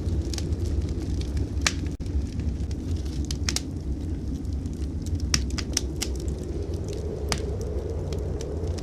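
Fireplace wood fire crackling, a few sharp pops spread through it, over a steady low rumble.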